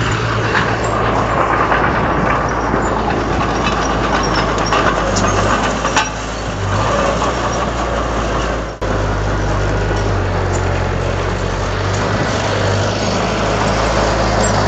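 Heavy diesel engine of earthmoving machinery running steadily, its low note shifting a little as the load changes, with a sharp click about six seconds in and a brief drop in sound about nine seconds in.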